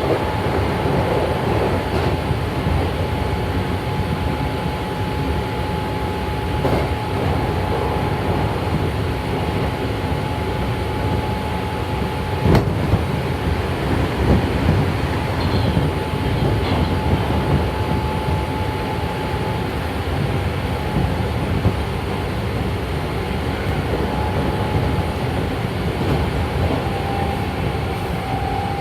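Inside a moving Hankyu 7300 series motor car, a field-chopper-controlled car with Toyo TDK-8580-A compound-wound traction motors: a steady rumble of wheels on rail with a few sharp clicks, and a steady whine that drops out about two-thirds of the way through and returns shortly before the end, dipping slightly in pitch. The motor sound is swishy, which is unusual for a 7300.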